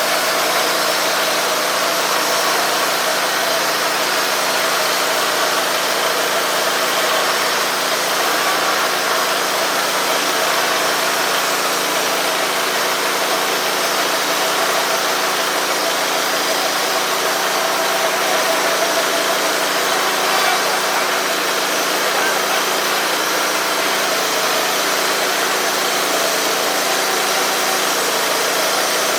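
Wood-Mizer LT15 portable band sawmill running steadily, its engine under load as the band blade cuts a board from an old barn beam.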